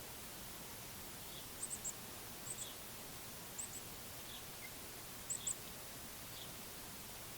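Small birds giving short, very high chip notes in quick pairs and threes, several times, with a few fainter lower notes, over a steady outdoor hiss.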